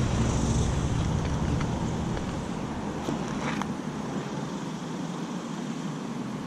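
Steady outdoor background noise, with a low rumble that fades out over the first three seconds and a few faint ticks.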